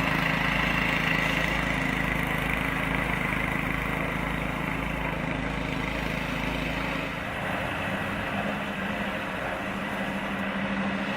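An engine running steadily at an even speed; its deepest rumble drops away about seven seconds in.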